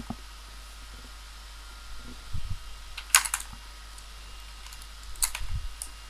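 A few computer keyboard and mouse clicks in two short clusters, about three seconds in and again about five seconds in, over a faint steady hum.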